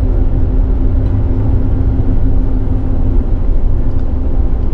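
Steady road and engine noise inside a moving vehicle's cab: a continuous low rumble with a steady hum over it.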